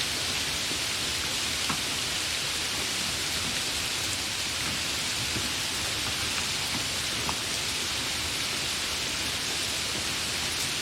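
Steady rain falling, a continuous even hiss with a few scattered drop ticks.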